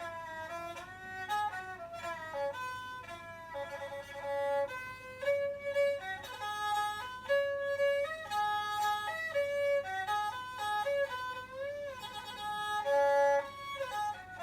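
Thai so (bowed fiddle) playing a solo melody, held notes linked by slides, with one note wavering and sliding near the end.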